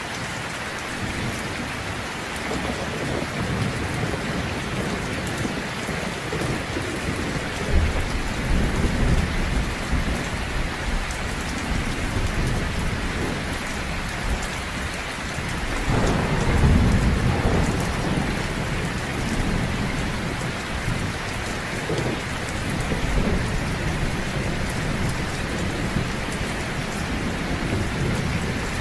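Steady heavy rain with low rolling thunder, swelling about eight seconds in and more strongly just past halfway.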